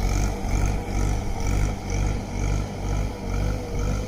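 Tractor diesel engine running hard, with an even pulsing about twice a second and a faint steady whine over it.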